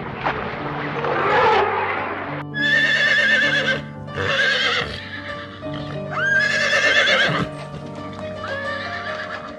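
A horse whinnying four times, each call high and wavering, over steady background music.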